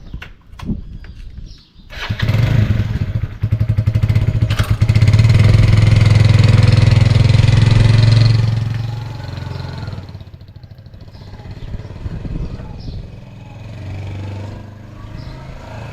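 A vehicle engine starts about two seconds in and runs loudly, then drops to a lower, steadier level from about eight seconds in.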